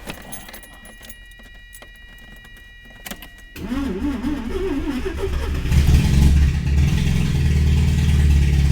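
Carbureted 12A rotary engine of a 1982 Mazda RX-7: a quiet stretch with a few light clicks, then the starter cranks it from about halfway through, and about two seconds later it catches and runs steadily. It is a first start after sitting over a year, firing on a two-stroke oil mix, and to the owner it sounds like all its apex seals are there.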